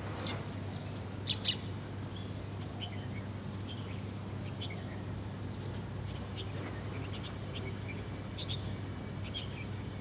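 Small songbirds chirping: short, sharp chirps, a loud one right at the start and a quick pair about a second and a half in, then fainter scattered chirps. A steady low hum runs underneath.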